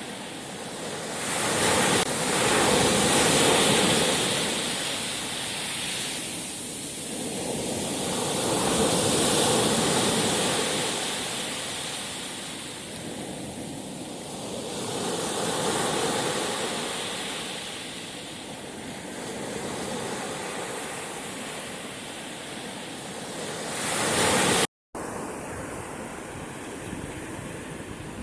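Sea surf: waves breaking and washing on the shore, swelling and fading every six seconds or so. A brief cut-out near the end, after which the surf is steadier and quieter.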